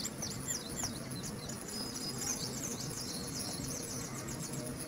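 Small bird chirping: a quick run of short, high chirps in the first couple of seconds, then a few fainter ones, over a steady low hum.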